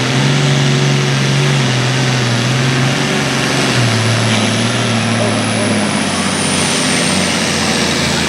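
Classic super stock pulling tractor's diesel engine running at full power under the load of the sled, its engine note stepping down in pitch about halfway through and again later as the run falls off, with a faint high whine slowly falling. The run ends short after a piece of the exhaust pipe falls off.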